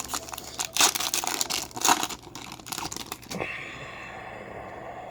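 A foil trading-card pack wrapper being torn open and crinkled, with dense irregular crackling and tearing for about three seconds, then a softer steady hiss near the end.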